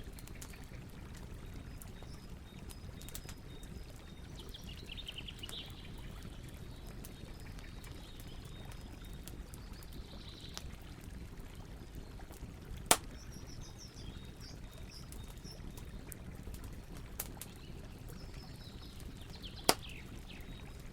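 Campfire crackling: a steady low rush dotted with small clicks, and two sharp pops, one about halfway through and one near the end. Birds chirp now and then in the background.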